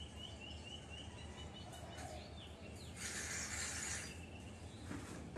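A bird chirping a quick series of short, repeated notes in the background, with a few fainter calls after. About three seconds in comes a loud hissing rustle lasting about a second.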